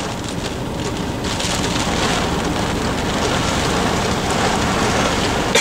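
Heavy rain drumming on a car's windshield and roof, heard from inside the car: a steady rushing patter that grows slightly louder partway through.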